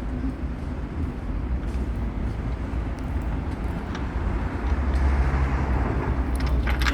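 Low, uneven outdoor rumble, with a quick cluster of sharp clicks near the end.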